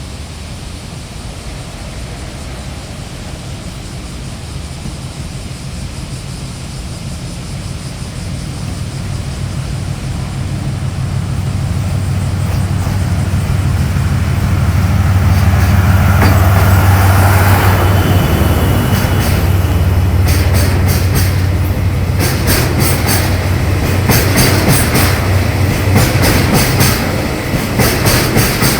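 Freight train approaching and passing through. A low, steady drone from the locomotive grows louder and peaks a little past the middle. Then rapid clicks of the wagons' wheels over the rail joints take over.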